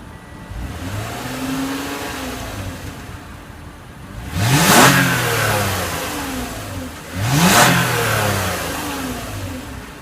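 2014 Toyota Camry XLE's 3.5-litre V6 starting about half a second in and settling to idle, then revved twice, about four and seven seconds in. Each rev rises sharply and falls slowly back to idle.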